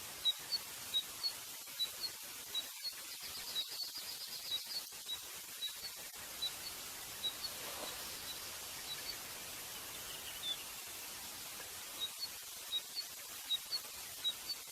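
A single small bird chirping: short high chirps repeated every half second or so, alternating between two close pitches, with a quick trill a few seconds in, over a steady hiss.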